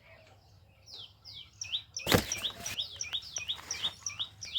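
Small birds chirping in a quick repeated series of short, sliding notes, about two to three a second. About two seconds in, a loud, sharp crackle with a brief rustle is heard, the loudest sound here.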